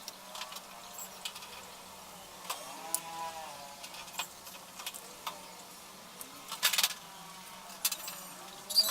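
Scattered clicks and light knocks of hard parts being handled, with a short squeak about three seconds in and a louder burst of clatter near seven seconds.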